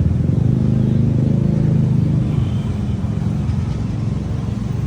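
Boat engine running steadily, a low, even drone that is loudest in the first couple of seconds and eases slightly after.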